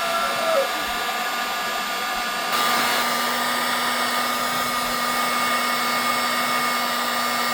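Electric hot-air blower running steadily, aimed at a frozen ignition lock to thaw it so the key will turn. About two and a half seconds in, a steady tone joins the airflow and it gets a little louder.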